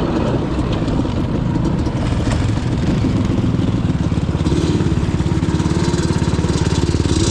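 Yamaha Banshee's twin-cylinder two-stroke engine running steadily at low revs, its exhaust pulses even. It gets slightly louder about halfway through.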